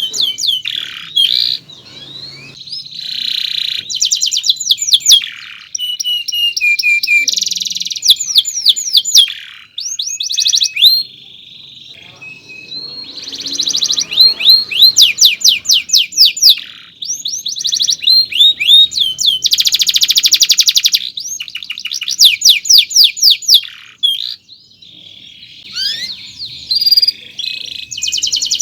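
Domestic canary singing a long, varied song: fast runs of repeated high chirps and trills, broken by short pauses between phrases.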